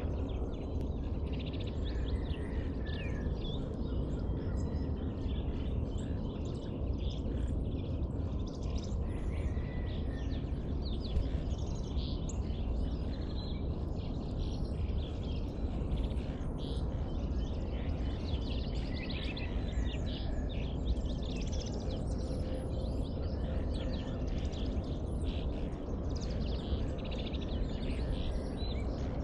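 Dawn birdsong: many birds chirping and calling throughout, over a steady low rumble.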